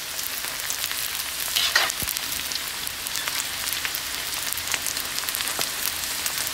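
Pork back fat deep-frying into chicharon in its own rendered fat: a steady sizzle thick with fine crackling pops as the skin puffs and crisps, with one louder burst of sizzle a little under two seconds in.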